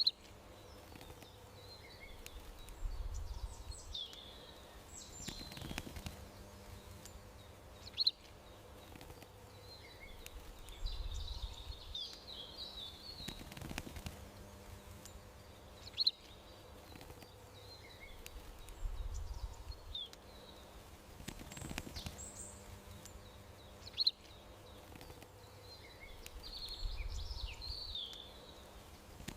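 Small birds chirping and twittering over a faint steady hum, with a sharp chirp every eight seconds: the same few seconds of birdsong repeat as a loop.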